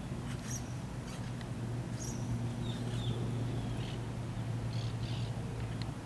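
A few short, high bird chirps and squeaks, spread over several seconds, above a steady low hum.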